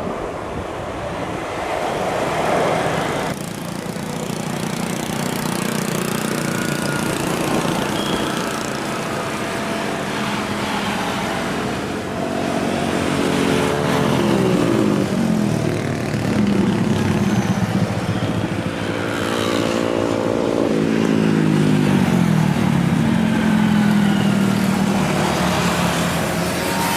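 Road traffic passing close by: motorcycle and car engines, several dropping in pitch as they go past, over a steady background rumble.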